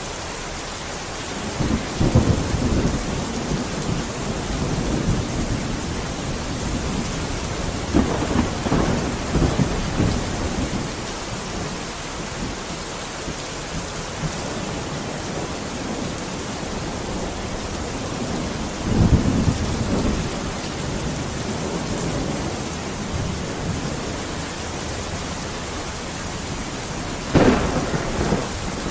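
Steady rain with four rolls of thunder spread through it. The last one, near the end, starts more sharply than the others.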